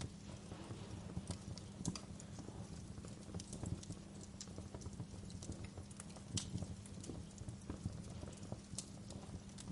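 Wood fire in a fireplace crackling: irregular sharp pops and snaps over a low steady rumble, with louder pops about two seconds in and again past the middle.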